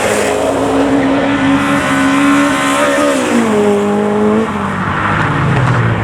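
Modified car engine driving away under throttle, its note held steady for about three seconds, then dropping in pitch, with a rough rushing noise toward the end.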